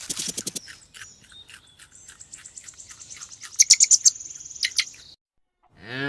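A small bird chirping rapidly, with fast high-pitched trills, that stops about five seconds in. A deep, drawn-out animal call begins just before the end.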